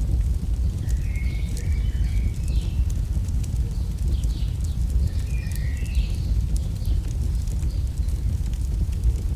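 AI-generated campfire sound: wood fire crackling with many sharp pops over a steady low rumble. A few short chirps sound in the background between about one and six seconds in.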